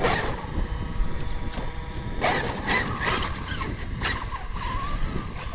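Electric RC car running, its motor whining in steady tones with rough, noisy surges as it drives.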